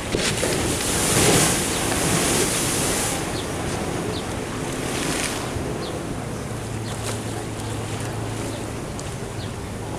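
Ocean waves surging and washing against a sea wall, with wind buffeting the microphone. The surge is loudest in the first few seconds, then eases to a steadier wash.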